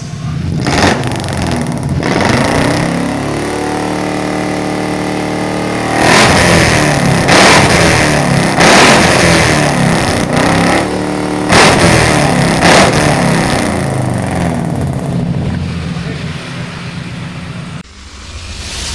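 Suzuki Carry injection engine running through a custom exhaust with a 431-type header and muffler: idling steadily, with repeated quick blips of the throttle.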